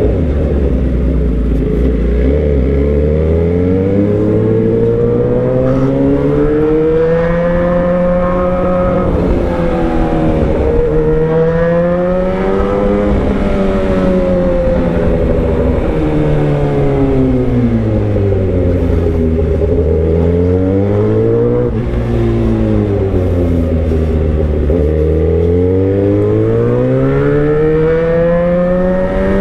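Motorcycle engine running through a bare exhaust pipe with the muffler removed, its pitch rising and falling several times as the rider speeds up and slows down.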